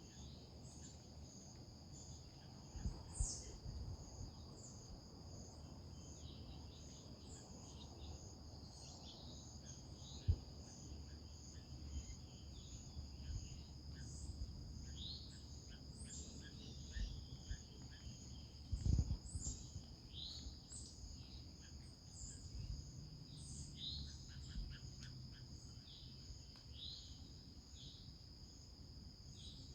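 Outdoor morning ambience: insects trill in a steady high drone while birds chirp with many short, repeated calls. A few low thumps stand out, about three, ten and nineteen seconds in.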